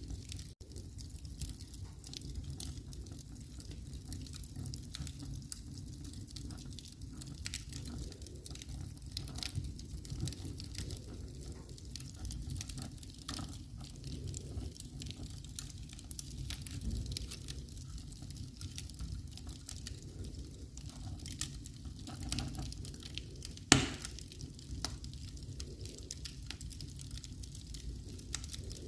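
Wood fire in a fireplace crackling: many small, irregular snaps over a low steady rumble, with one much louder pop late on.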